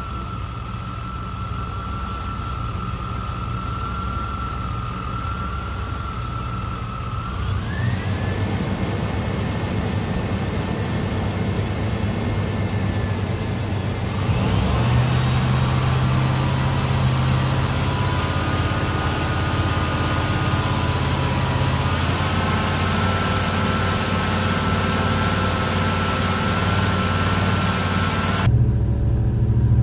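Chevy Suburban's V8 engine running at operating temperature, with a thin steady whine over the engine's hum. The whine steps up in pitch about a quarter of the way in, and about halfway the engine gets louder and the whine splits into several lower tones that rise again a little later.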